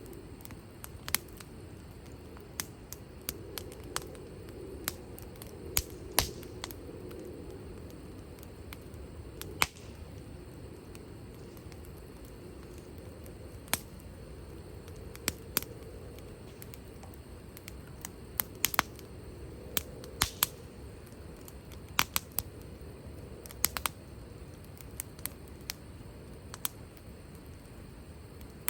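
Wood fire crackling, with irregular sharp pops from the burning wood, sometimes in quick clusters, over a low steady background.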